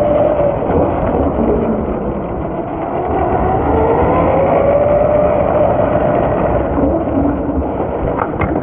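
Large electric RC monster truck's motor whining, its pitch rising and falling with the throttle, over a steady low rumble from the drivetrain and tires.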